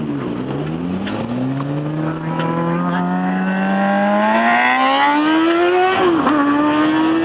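Motorcycle engine accelerating in a mild take-off, its pitch climbing steadily for several seconds, dropping sharply about six seconds in at a gear change and then climbing again.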